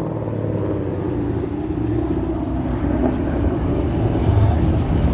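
A car engine running nearby with a low, steady rumble that grows a little louder near the end.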